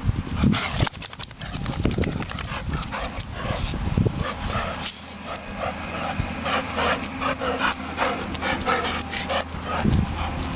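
Dogs barking and yipping in rough play, in quick short bursts that come thickest in the second half.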